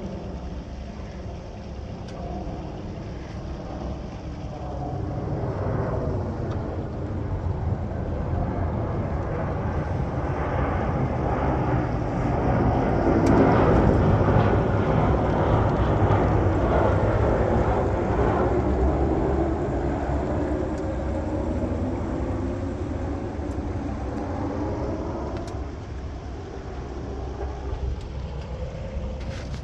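Airplane passing overhead: a steady engine rumble that builds to its loudest about halfway through, then slowly fades away.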